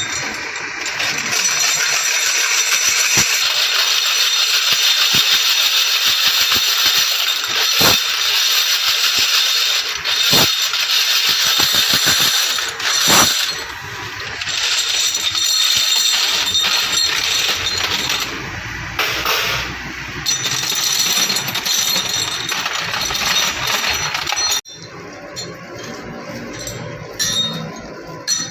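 Steady machine hiss with small metal parts clinking and knocking now and then. It drops suddenly near the end to quieter clinking.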